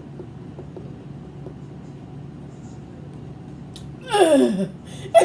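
A few seconds of quiet room tone, then about four seconds in a woman's short, breathy, whiny moan that falls steeply in pitch.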